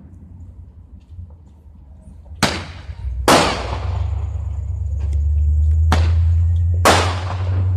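Fireworks going off: four sharp, loud bangs spread over a few seconds, each with a ringing tail, over a steady low rumble that starts about three seconds in.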